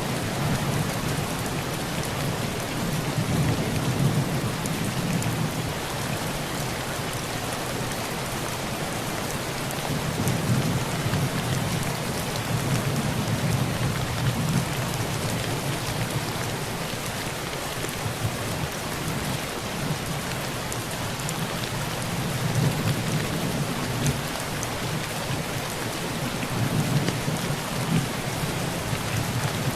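Heavy rain falling steadily on a tin roof, a dense even patter, with low rolling thunder that swells and fades several times.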